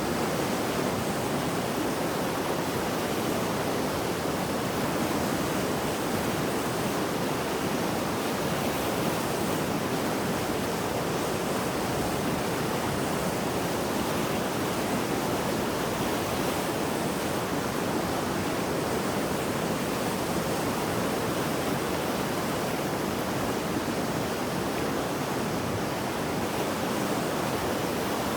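Mountain river in flood after heavy rain, its fast high water rushing in a steady, dense roar of white noise with no pauses.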